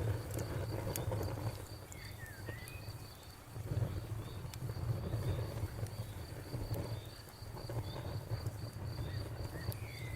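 Campfire crackling with scattered sharp pops over a steady low rumble, while a cricket chirps in rapid, even pulses throughout. A bird gives a couple of brief chirps about two seconds in and again near the end.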